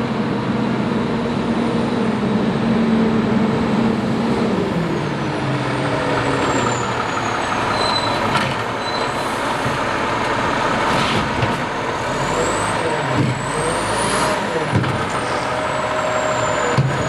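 Freightliner Condor garbage truck's diesel engine running at raised revs that drop about four seconds in, with a thin high whine gliding up and down and a few brief sharp noises.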